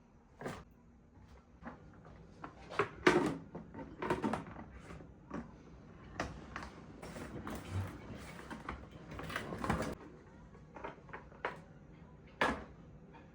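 A string of light knocks, clicks and clatters from household objects being handled and set down, the loudest about three seconds in and again near the end.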